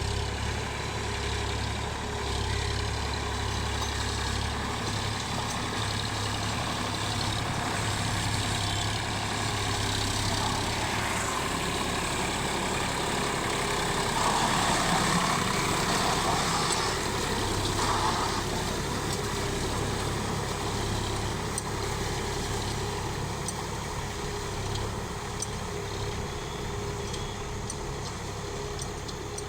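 Sonalika tractor's diesel engine running steadily, a little louder for a few seconds about halfway through.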